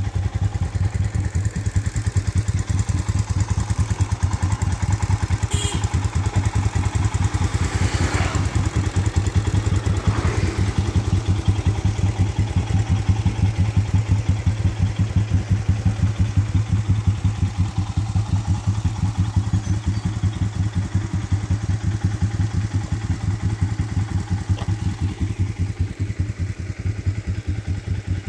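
Single-cylinder motorcycle engine running at a steady, even pulsing beat, with no clear revving.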